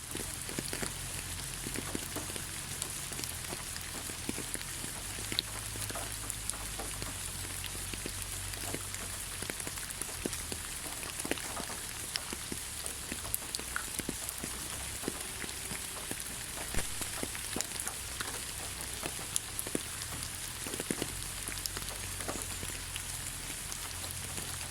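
Steady rain falling on the ground: an even hiss with many separate drop taps scattered all through.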